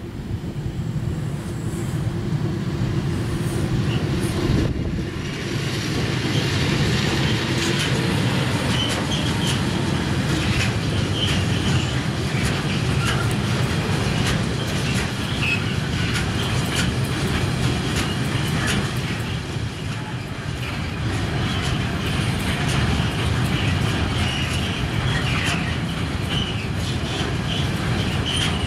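Freight train of loaded log wagons behind an electric locomotive rolling past: a steady low rumble of wheels on rail that swells a few seconds in, with intermittent high wheel squeal.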